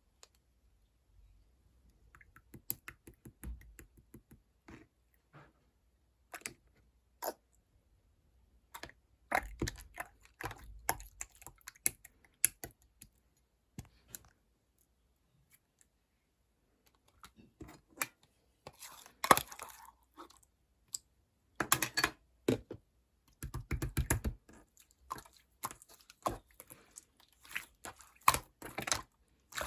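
Clear slime being squished, folded and stretched by hand, making sticky clicks and small pops of trapped air in irregular bursts, with a quiet gap about halfway and busier handling near the end.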